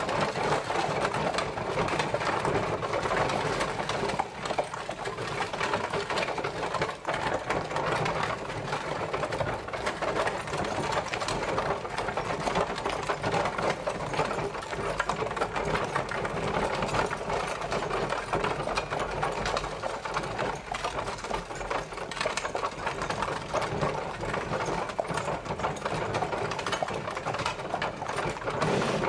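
Horse-drawn carriage travelling, its wheels and body rattling and clattering steadily without a break.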